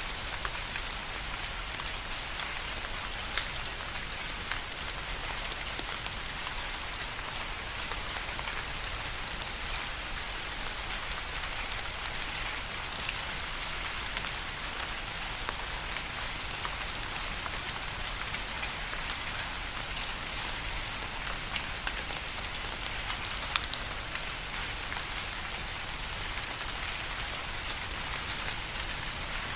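Steady rain falling, a dense even hiss with many distinct drops ticking through it.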